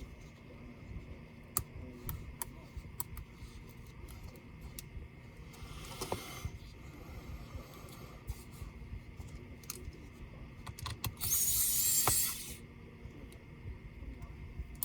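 Scattered light clicks and taps of small laptop parts and tools being handled during disassembly, with a brief faint hiss about 6 seconds in and a louder high hiss lasting about a second and a half near 11 seconds in.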